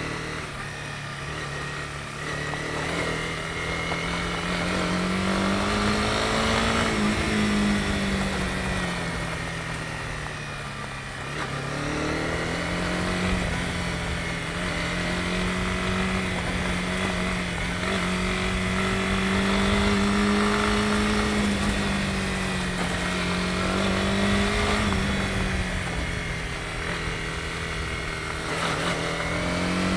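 Honda CB250R's single-cylinder engine running under way on a ride. Its pitch rises and falls several times with the throttle, with a brief drop about eleven seconds in.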